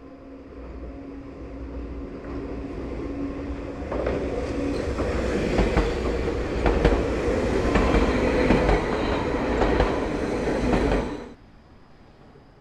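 Enoshima Electric Railway train passing close by, its wheels clicking over the rail joints. The sound grows louder over the first few seconds, holds loud with rapid clicks, and cuts off suddenly near the end.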